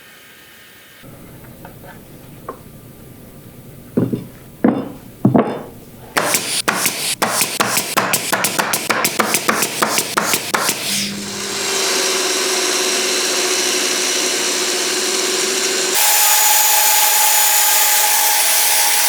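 Workshop tool work: three separate knocks, then a fast run of sharp taps, about five a second, for several seconds. Then a power tool runs steadily with a whine, stepping up louder and higher-pitched a few seconds before the end.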